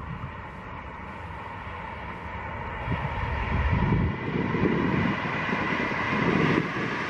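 Haramain high-speed electric train running past at speed: a steady rush of wheel-on-rail and air noise that swells louder through the second half.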